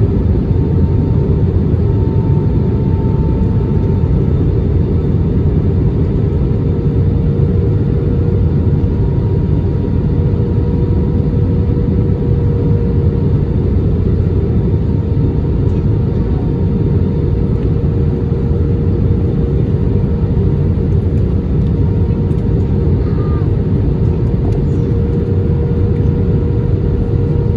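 Steady cabin noise inside an Airbus A320 in flight: a low, even rumble of engines and rushing air with a constant hum over it.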